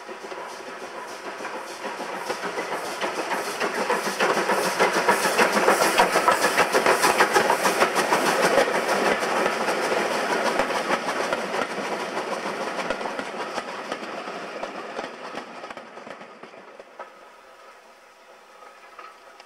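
Steam train hauled by GWR prairie tank locomotive No 5199 passing by. It grows louder to a peak about six to eight seconds in, then fades away, with a fast clatter of wheels over the rail joints.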